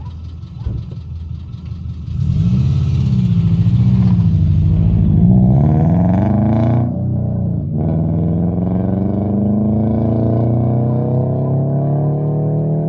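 2007 Subaru Impreza's flat-four engine through its newly fitted aftermarket exhaust (cheap headers, new catalytic converter section and cat-back): idling roughly, then revved up and down several times from about two seconds in, then a steady run with the pitch slowly climbing after a short dip near the middle.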